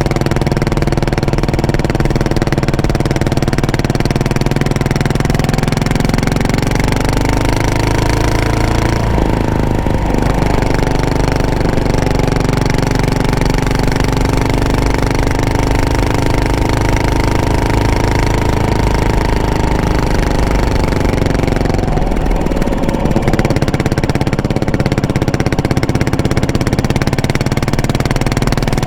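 Yamaha SR400 single-cylinder four-stroke through an aftermarket exhaust, running under way. The engine note rises and falls with throttle and gear changes, with a clear drop about a third of the way through and another change past the two-thirds mark.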